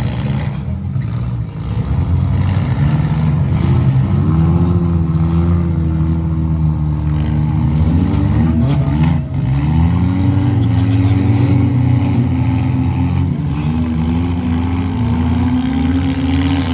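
Several demolition derby car engines running and revving at once, their pitch rising and falling again and again.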